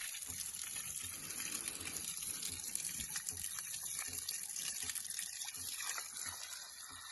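Cold spring water gushing steadily from an open pipe fed from the mountain.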